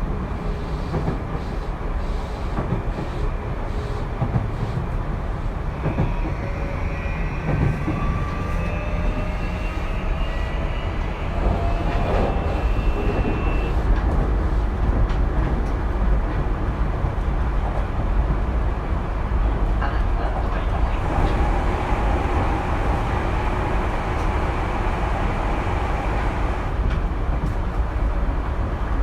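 Tokyu 2020 series electric train running, heard inside the car: the traction motors' whine climbs in pitch as the train picks up speed, over a steady rumble of wheels on track.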